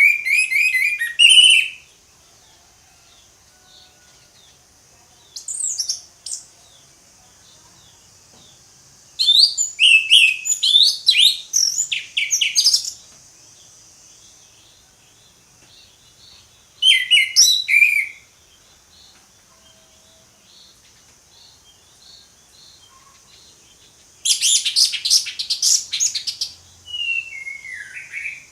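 Orange-headed thrush singing: five bursts of rapid, varied whistled song phrases, the longest about four seconds, separated by pauses of a few seconds. A steady high buzz runs behind the song.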